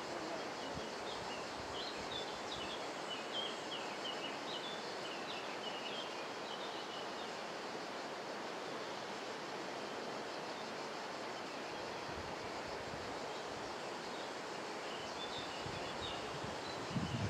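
Steady outdoor background noise with small birds chirping in quick, high twittering calls through the first several seconds and again near the end, followed by a few low thumps at the very end.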